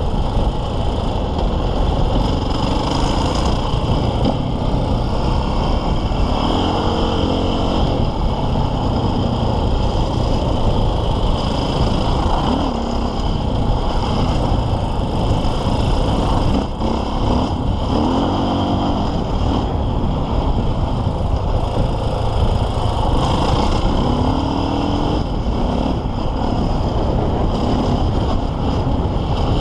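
KTM 450 EXC enduro motorcycle's single-cylinder four-stroke engine ridden hard offroad, its pitch climbing as it revs several times, over a heavy, steady rumble of wind and terrain on the onboard microphone.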